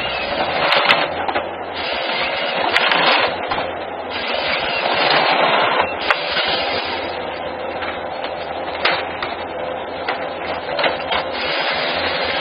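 Heavy forestry machine working: a steady engine hum under repeated surges of noise, with several sharp cracks.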